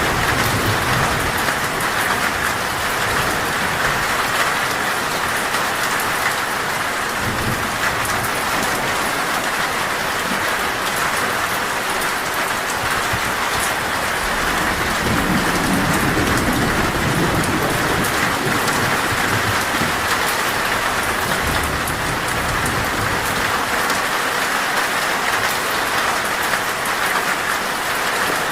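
Heavy rain falling steadily on a metal roof, with low rumbles of thunder rolling in a few times; the longest comes in the middle.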